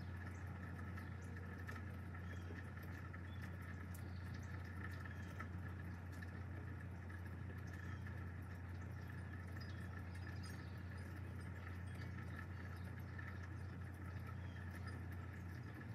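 Steady rain, with scattered drops ticking, over a steady low hum.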